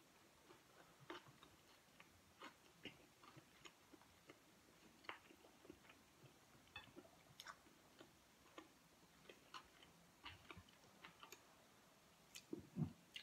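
Quiet chewing and wet mouth clicks of a person eating a mouthful of rice and beef steak, with a louder, deeper knock near the end.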